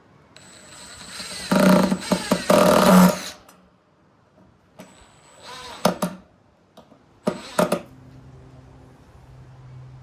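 Cordless power drill driving screws into timber in three runs: a long one of about three seconds with a steady high whine, a shorter one midway, and a brief one near the end.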